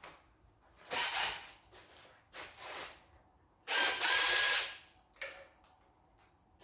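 Hand and power tools working on valve cover bolts of a 5.9 Magnum V8. Two short bursts of ratcheting come first, then a louder second-long run of a power tool with a steady whine, about four seconds in.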